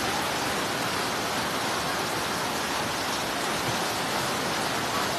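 Heavy rain falling on a tent canopy and wet paving: a steady, even hiss.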